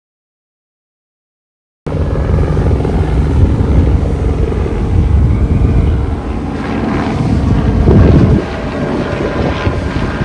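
Helicopter running close overhead, its rotor and engine making a loud, steady low rumble with wind noise on the microphone. It cuts in suddenly about two seconds in, after dead silence.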